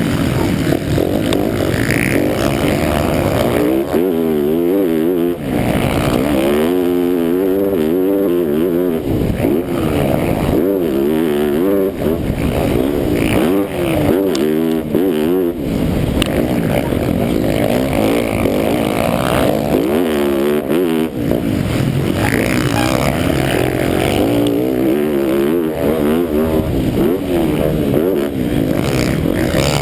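Onboard sound of an MX1 motocross bike's engine revving hard and dropping off again and again, the pitch climbing and falling every second or two as the rider accelerates, shifts and shuts off around the track.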